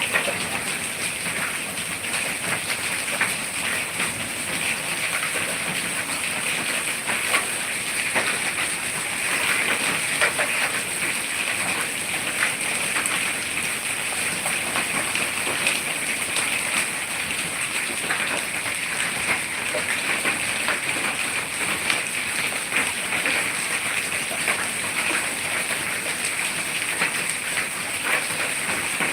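Heavy rain with hail: a steady hiss of downpour with many small, sharp hailstone impacts ticking on surfaces throughout.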